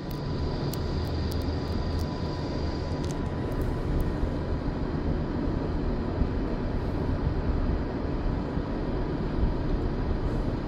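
Steady rumble and roar of a moving passenger train running along the line, with a thin high whine that fades out about three seconds in.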